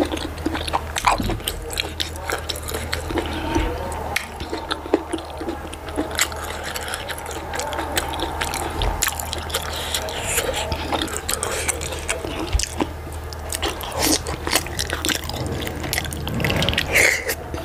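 Close-up wet chewing and lip-smacking of soft fufu and achi soup, many small moist clicks and squelches, with another handful taken into the mouth near the end. A steady low hum runs underneath.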